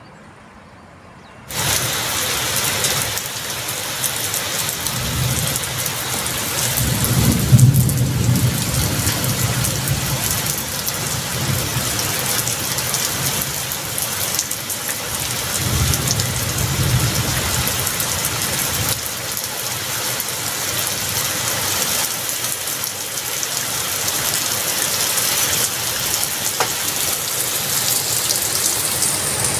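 Heavy rain pouring down, starting abruptly about a second and a half in. Thunder rumbles twice beneath it: a long roll peaking near the quarter mark, which is the loudest moment, and a shorter one about halfway through.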